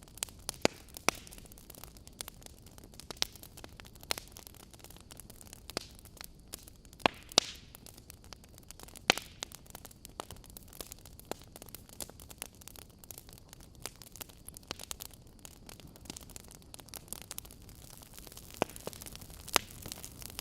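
Fireplace crackling: irregular sharp pops and snaps over a steady soft hiss.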